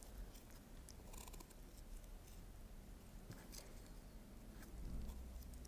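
Faint handling sounds as a cord is worked through the cardboard puppet's leg and body pieces: a few soft, scattered clicks and rustles.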